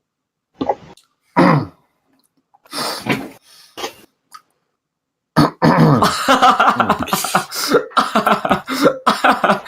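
A man coughing and gagging while eating an insect: a few short coughs, then from about five seconds in a long, loud run of hacking coughs and retching.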